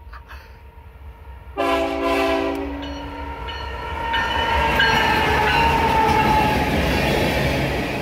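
Diesel freight locomotive's multi-chime horn sounds a blast about a second and a half in. The locomotive and the train behind it then pass close by with a swelling rumble of engine and rolling wheels on the rails.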